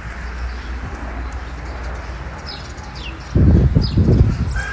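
Birds calling: short high chirps a few times, and a louder, low, pulsing burst of sound from about three and a half seconds in.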